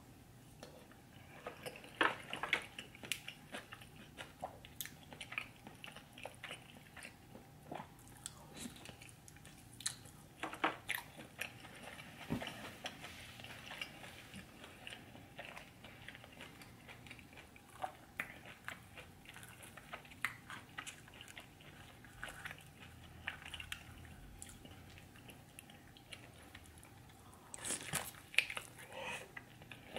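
A person eating close to the microphone: steady chewing and wet mouth sounds, broken by a few louder bites, the last cluster near the end.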